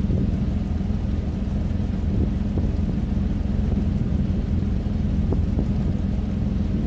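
Truck engine idling with a steady low rumble, with a few faint clicks partway through.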